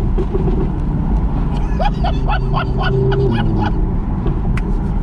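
Audi R8 V10 Plus's 5.2-litre V10 running through an aftermarket Quicksilver titanium and stainless-steel exhaust while driving, at a steady note that drops a little in pitch past the middle. A quick run of short high chirps sounds briefly around two seconds in.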